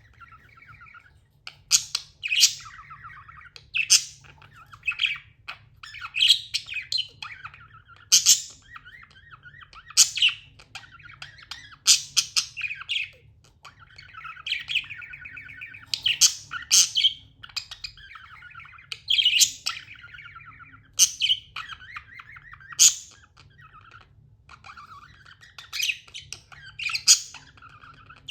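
Pet budgerigar chirping and chattering: loud, sharp chirps every one to two seconds over a soft, continuous warbling chatter.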